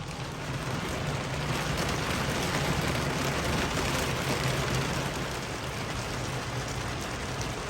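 Steady rain and wind, a continuous hiss of rain on the boat that swells a little mid-way, with a low steady drone underneath.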